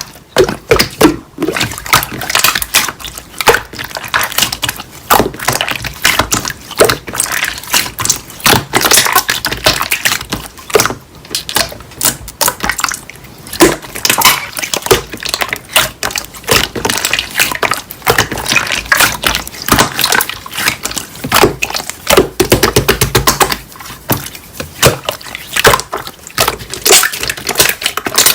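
Slime being squeezed, pressed and stretched by hand, with dense, irregular crackling and clicking and some wet squelching.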